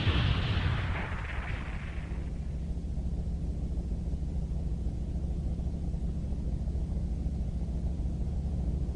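Cartoon sound effects: an explosion-like rumble that fades away over the first two seconds, then a steady low hum.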